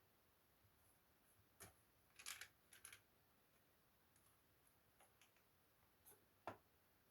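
Faint, scattered clicks and short scratchy scrapes, typical of small laptop parts and tools being handled during disassembly: a scratchy cluster about two seconds in and a single sharper click near the end.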